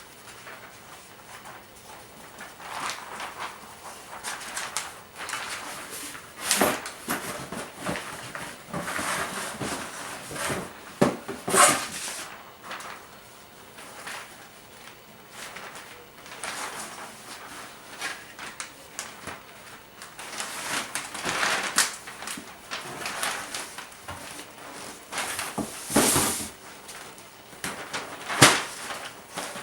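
Gift-wrapping paper rustling and crinkling in irregular bursts as presents are handled and wrapped, with a few sharper crackles.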